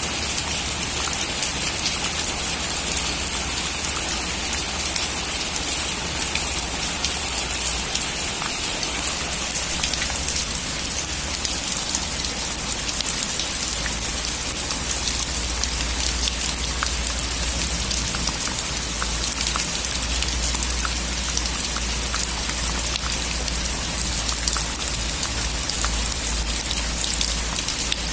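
Heavy rain drumming steadily on a metal roof, a dense patter of drops with a low rumble underneath.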